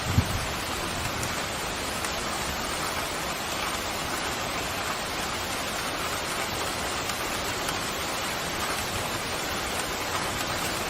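Steady heavy rain pouring down in an even hiss, with one brief low thump just after the start.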